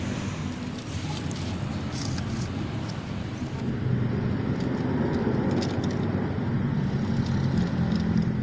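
Steady low rumble of a road vehicle, growing louder about four seconds in, with a few faint clicks.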